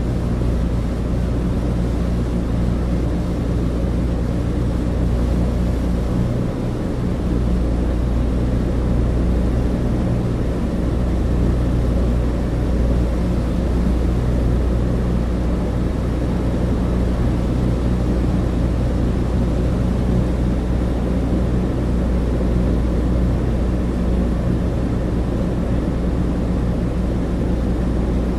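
Douglas DC-3 cabin interior: the steady drone of its twin radial piston engines and propellers, heard inside the fuselage as a deep hum with a rushing noise above it, holding even throughout.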